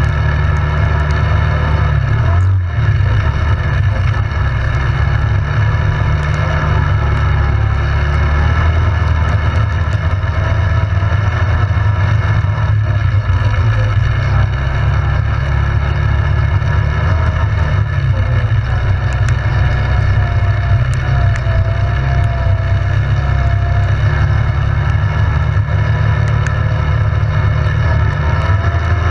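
ATV engine running steadily while riding, with a strong low rumble and small rises and falls in engine pitch.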